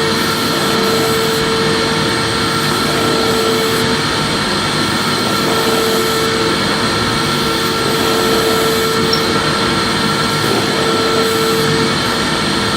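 Electric vacuum cleaner running steadily, a continuous full-range rushing noise with a motor whine. A lower whistling tone in it drops out briefly twice.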